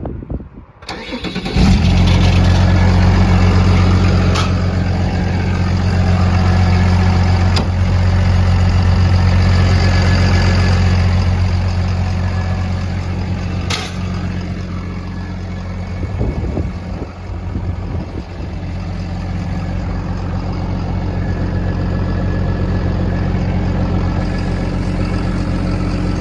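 Case 850L bulldozer's diesel engine idling steadily, coming in suddenly about a second and a half in. A few faint clicks sound over it.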